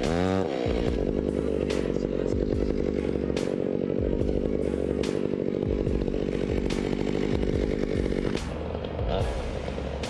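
Chainsaw running at high speed, cutting into wood. About eight seconds in it drops to a lighter, quieter running sound.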